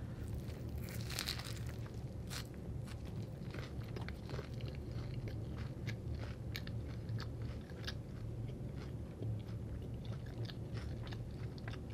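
A person biting into an untoasted lox and bagel sandwich with lettuce and red onion, with a crunchy bite about a second in, then steady close-up chewing with many small crunches and mouth clicks.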